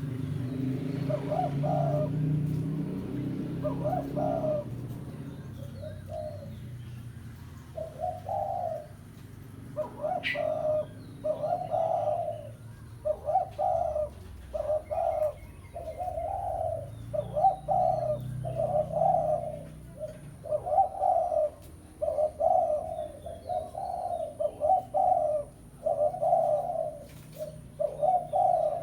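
Spotted dove (tekukur) cooing, short repeated coo phrases given over and over, sparse at first and coming in a near-continuous run from about ten seconds in: a call given to challenge rival doves. Faint chirps of small birds sound in the background.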